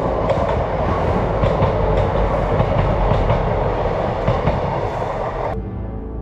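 Diesel multiple-unit passenger train passing close by on the line below, a loud rushing rumble with irregular clicks of the wheels over the rail. It cuts off abruptly about five and a half seconds in, giving way to soft background music.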